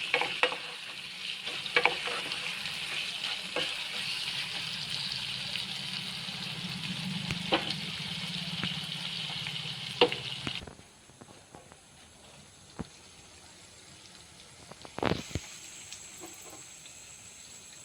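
Chicken curry sizzling in a pan, with a few clinks of a spoon stirring it. The sizzling cuts off suddenly about ten seconds in, and a single knock follows a few seconds later.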